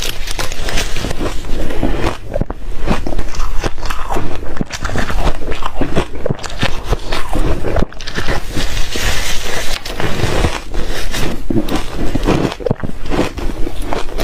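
Close-up crunching and chewing of refrozen shaved ice, a dense run of crackles and snaps with brief pauses between bites.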